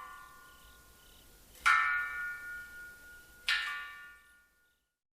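Suikinkutsu (underground water koto): water drops falling into a buried, upturned earthenware jar, each drop giving a clear, bell-like ringing note that echoes and fades. Two drops ring out, the second about two seconds after the first. They follow the fading ring of an earlier drop, and all sound stops near the end.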